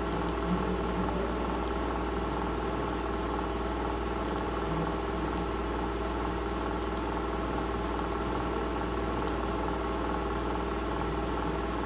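Steady hum with a stack of even tones, like a fan or small motor running close to the microphone, with faint short clicks every second or so, typical of mouse clicks.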